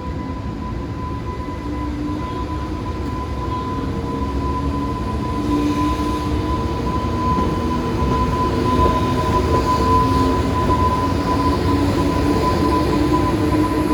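Container freight train hauled by an EH500 electric locomotive running along the line, its rumble growing gradually louder, with a steady high-pitched tone throughout.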